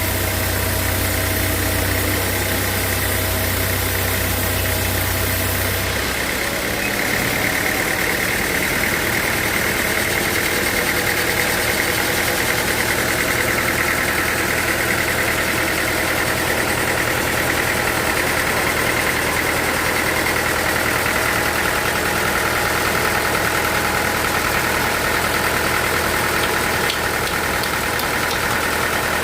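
Sawmill machinery running steadily. About six seconds in, the deep hum drops away and a steady higher whine takes over.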